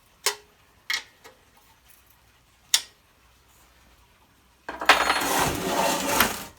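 A few light metallic clicks, then about two-thirds of the way through one pull on the old Honda generator's recoil starter, cranking the engine for about a second and a half; it stops without the engine catching.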